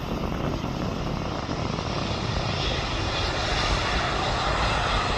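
Aircraft engine noise at an airport: a steady, rushing roar that grows gradually louder as the aircraft approaches or powers up.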